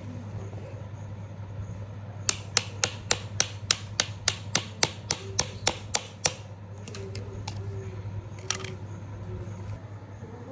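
A quick, even run of about fourteen sharp knocks, roughly three a second, then a few scattered softer ones, over a steady low hum.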